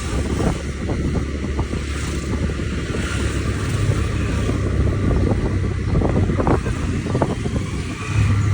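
Steady low rumble with wind noise buffeting the microphone.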